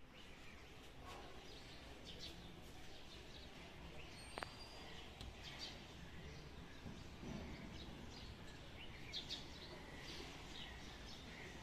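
Birds chirping faintly and intermittently, many short calls scattered throughout, over a steady low background rumble.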